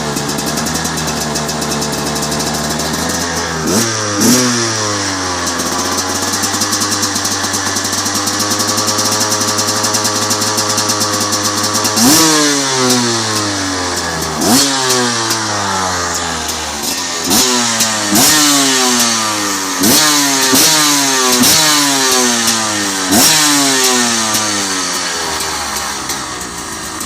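2013 Husaberg TE250's two-stroke single-cylinder engine running through its stock exhaust. It idles, gets two quick throttle blips about four seconds in and holds a steady higher speed for several seconds. From the middle on it gets a run of sharp blips, roughly one a second, each falling back, then eases toward idle near the end.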